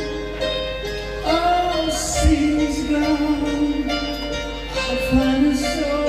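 A voice singing long held notes that slide in pitch, over instrumental music accompaniment.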